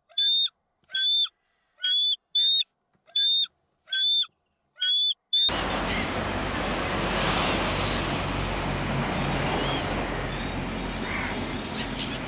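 A bird's short, clear, high calls repeated about eight times, roughly every half second. About five seconds in, they give way suddenly to the steady wash of ocean surf with a few faint seabird calls in it.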